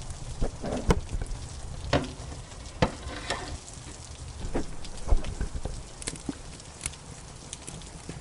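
Wood fire in a fireplace crackling, with sharp irregular pops, the loudest about one, three and five seconds in, over a steady rush of rain.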